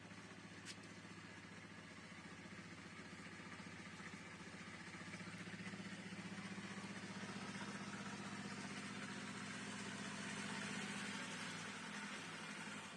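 An engine running steadily at low level, growing louder over several seconds and dropping off near the end, with a single sharp click about a second in.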